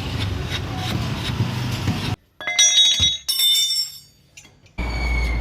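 Steady background rumble that cuts off abruptly, followed by a short burst of bright, bell-like ringing tones for about a second and a half; the rumble cuts back in near the end.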